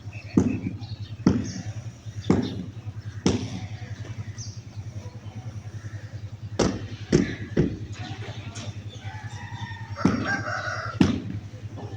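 Rooster crowing and chickens calling, broken by heavy thuds about once a second, over a steady low hum.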